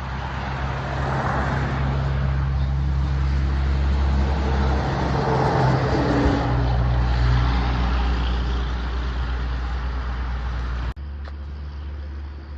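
Road traffic going past: passing vehicles' tyre and engine noise swells to a peak about halfway through over a steady low engine hum. Near the end the sound cuts off suddenly and comes back quieter.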